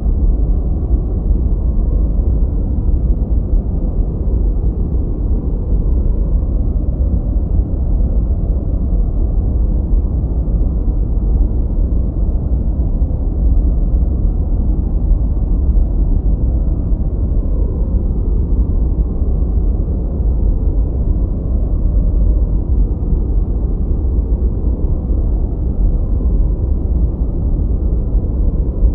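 Steady, unbroken noise from a focus and relaxation noise track sold as white noise. It sounds as a deep, muffled rumble with no hiss, its weight in the low end.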